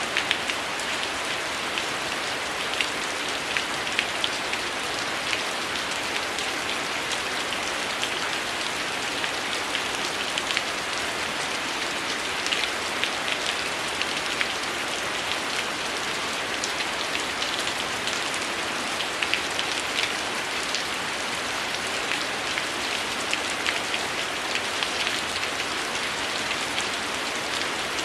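Steady heavy rain falling, with many short sharp ticks of drops scattered through it.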